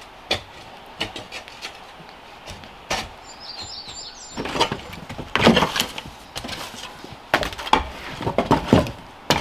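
Irregular wooden knocks and cracks, sparse at first and then coming in dense clusters from about halfway through. A bird chirps briefly in the middle.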